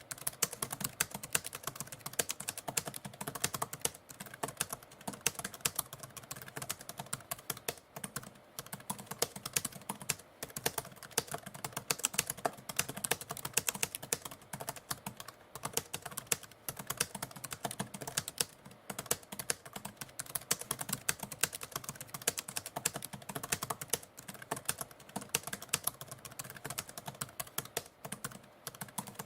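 Typewriter keys struck in a fast, continuous run of clicks, with brief pauses now and then.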